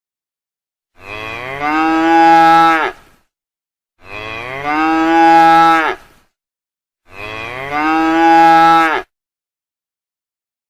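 Cow mooing three times, each moo about two seconds long, the same call repeated identically.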